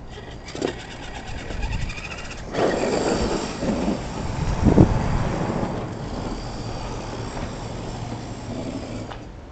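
Electric motor of a Redcat Everest 10 RC monster truck whining as the truck drives, its tyres rumbling and crunching over the ground. It gets louder a couple of seconds in, with a sharp thump about halfway through, then eases off near the end.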